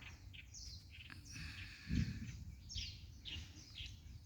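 Wild birds chirping: many short, high calls that fall in pitch, repeated throughout, with a brief held high note a little over a second in. A dull thump about two seconds in.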